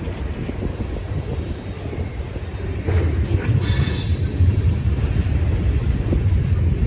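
Passing train: a low rumble that grows louder about three seconds in, with a brief high-pitched wheel squeal at about the same point.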